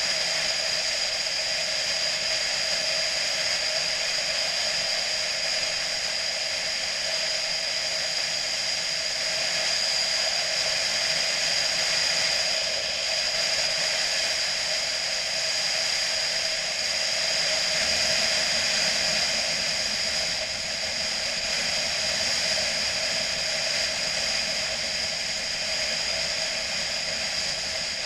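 Steady rush of wind and road noise from a motorcycle ride at an even speed, with no change in engine pitch.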